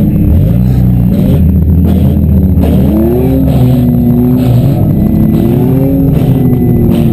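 Demolition derby car engines running and revving, with a pitch that climbs about three seconds in and then wavers up and down.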